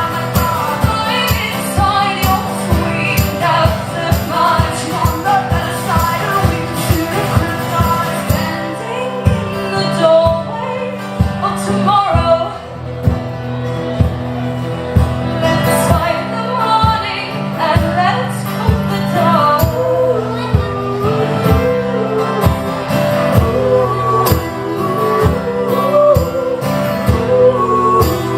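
Live performance of a song: strummed acoustic guitar keeping a steady beat under a singing voice.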